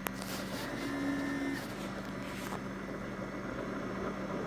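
Keurig K55/K50 single-serve coffee maker starting a brew cycle: a click, then mechanical whirring in uneven surges, with a brief steady tone about a second in.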